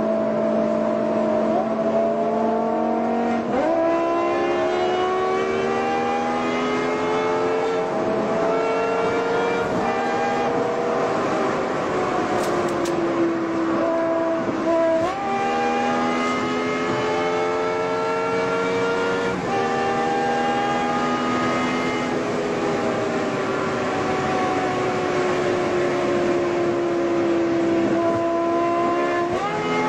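BMW M5 E60's 5.0-litre V10 engine heard from inside the cabin while driving hard: its pitch climbs steadily under acceleration and sags while easing off. Several times it jumps up abruptly as the gearbox shifts down.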